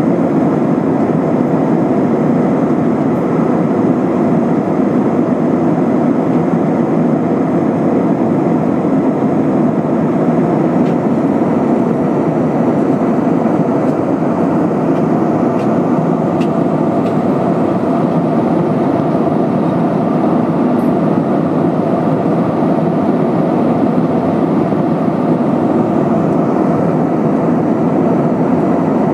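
Steady cabin noise of an Airbus A320-232 in flight: a constant rush of airflow and the hum of its IAE V2500 turbofan engines, unchanging throughout.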